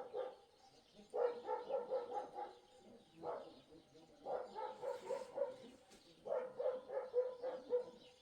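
An animal calling again and again, with about four or five drawn-out calls of a second or so each, every one with a quavering, pulsing tone.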